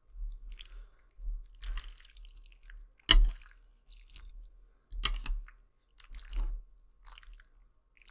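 Close-miked chewing and wet mouth sounds of someone eating spicy noodles, coming in irregular bursts, with one sharp click about three seconds in that is the loudest sound.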